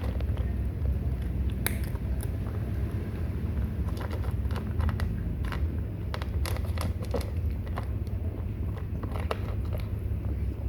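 Kittens chewing and crunching food, with irregular sharp clicks and crunches over a steady low rumble.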